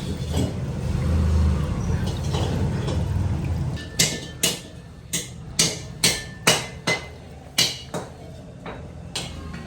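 Hammer blows on metal, about ten sharp ringing strikes at roughly two a second, starting about four seconds in. A low rumble fills the first few seconds before them.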